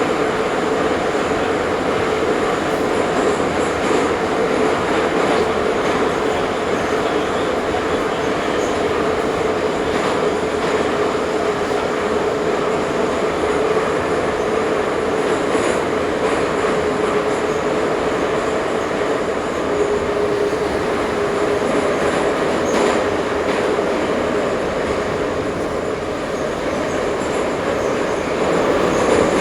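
Ezh3 metro train running between stations: a steady rumble of wheels on rails with a continuous humming tone through it that drops a little in pitch about two-thirds of the way in.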